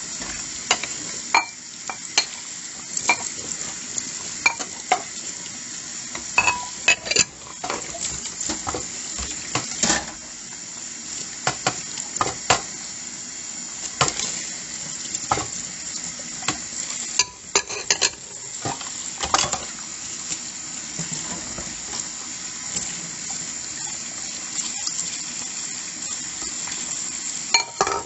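Dishes being washed by hand: plates and cutlery clinking and knocking together over a steady hiss of running water.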